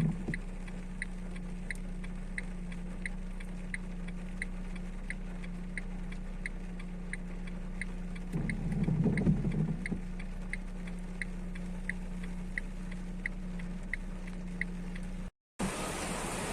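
Even mechanical ticking, about three ticks every two seconds, over a steady low hum, with a louder rustling patch midway. After a short break near the end, a steady rushing like heavy rain takes over.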